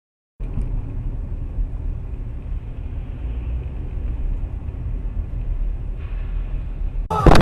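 Car driving, heard through a dash cam: a steady low road and engine rumble, then near the end a sudden loud crash, as of a collision.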